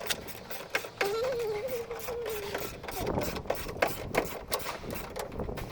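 A run of irregular sharp mechanical clicks and ratcheting taps, with a brief wavering tone about a second in.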